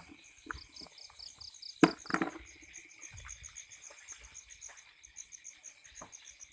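Night insects: a cricket chirping in an even, rapid pulse about six times a second over a steady high insect drone. A sharp knock about two seconds in is the loudest sound, with a few fainter thumps.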